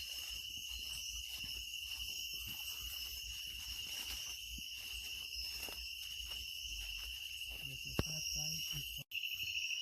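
Night chorus of rainforest insects: a steady, high-pitched shrill trilling, with fainter higher-pitched layers. It cuts out briefly about nine seconds in.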